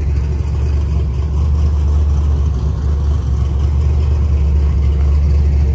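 A vehicle engine running steadily: a loud, even, low rumble.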